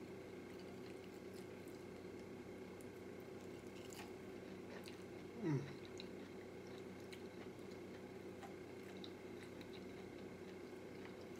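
Faint wet chewing and small mouth clicks from a man eating fried chicken, over a steady low hum. About halfway through there is a brief falling hum, the loudest sound here.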